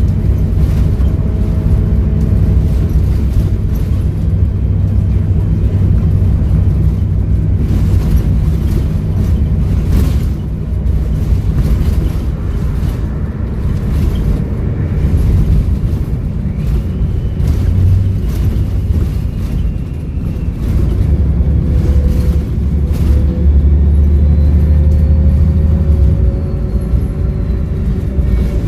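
Volvo B7RLE bus's six-cylinder diesel engine running under way with a steady low rumble. A faint high turbo whistle rises and falls about halfway through and again near the end.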